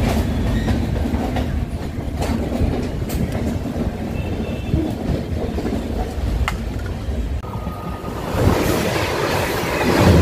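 Indian Railways passenger train running on the track: a steady rumble with wheel clickety-clack and scattered sharp clicks. The noise swells louder and hissier near the end.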